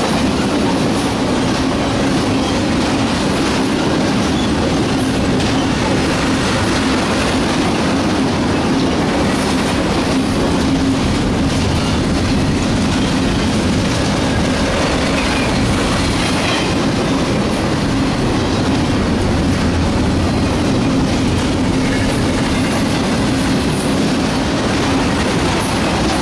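Cars of a CSX intermodal freight train, loaded with trailers and containers, rolling past close by. Wheels on rail give a steady, loud rumble with a steady droning tone and the clickety-clack of wheels over the rail joints.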